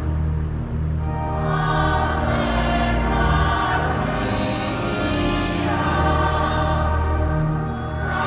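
Choir singing a sacred piece over steady held low notes; the voices come in about a second in.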